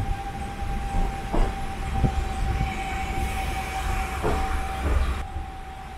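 Cabin sound of a one-car diesel local train pulling into a station: a steady low rumble and a steady high whine, with a few clacks from the wheels. The whine and some of the hiss drop away about five seconds in.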